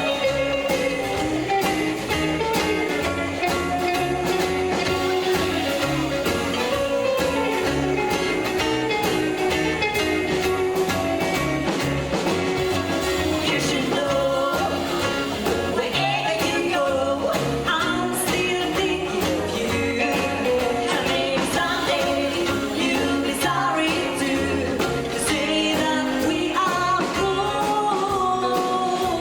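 Rockabilly band playing live: a singer's voice over electric guitar and a steady driving beat.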